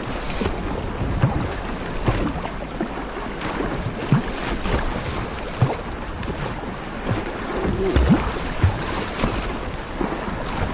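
Wind buffeting the microphone over sea water splashing and slapping around a sea kayak, with short low thuds and splashes at irregular intervals.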